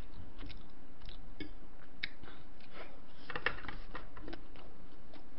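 A person chewing food close to the microphone, with scattered short crisp crunches and mouth clicks.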